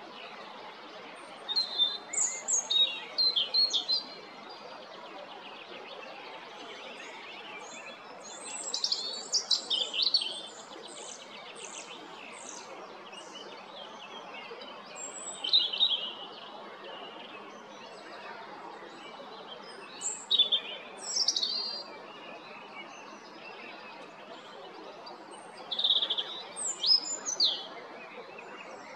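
European robin singing: five short phrases of high, quickly varied warbling notes, each a second or two long, separated by pauses of a few seconds, over a steady background hiss.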